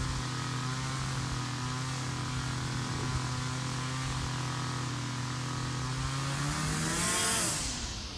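Small two-stroke engine running at a steady speed, then near the end its pitch lifts briefly and sags sharply as the engine slows.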